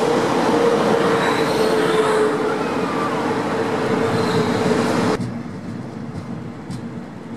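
DB Class 111 electric locomotive and its double-deck coaches arriving and passing close by, a loud steady rumble of wheels on rail with a constant hum. About five seconds in the sound drops abruptly to a quieter, more distant passing train.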